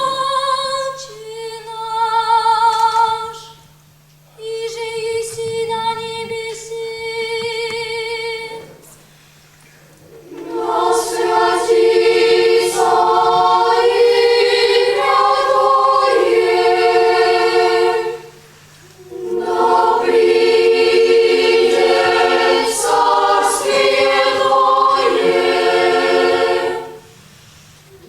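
Boys' and youths' choir singing unaccompanied. A single voice holds long notes with vibrato for the first several seconds, then the full choir comes in with sustained chords in phrases separated by brief pauses.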